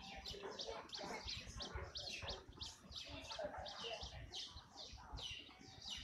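Birds chirping rapidly: short, high notes that fall sharply in pitch, about three a second, over a lower chattering layer.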